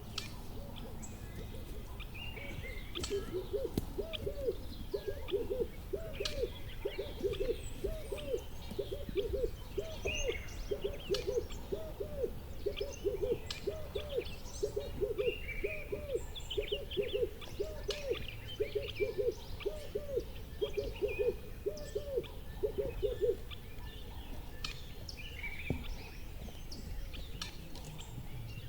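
A bird, plausibly an owl, gives a long run of low hooting notes, about two a second, for some twenty seconds, then stops. Small birds chirp and twitter throughout.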